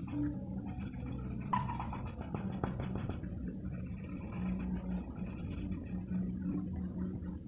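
Pencil scratching and shading on paper over a steady low electrical or room hum, with a sharp tap about a second and a half in.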